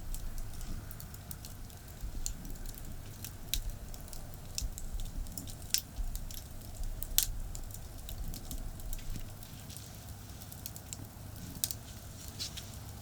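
Wood fire crackling, with irregular sharp pops, a few of them louder, over the low steady rumble of nearby highway traffic.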